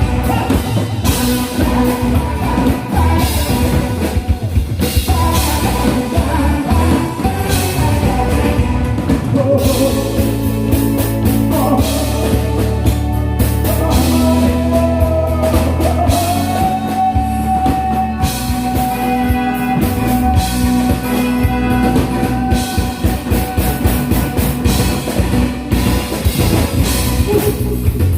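Loud live band music with a drum kit and bass beat under a melody line, which holds one long note for several seconds in the middle.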